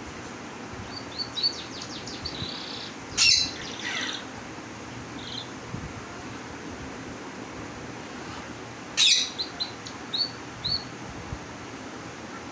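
A male bird calling: short high chirps in small groups, with two louder, harsher calls about three seconds and nine seconds in.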